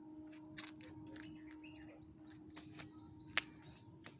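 A small bird chirping a quick run of about six high notes in the middle, over a steady low hum, with a few sharp clicks, the loudest a little past three seconds in.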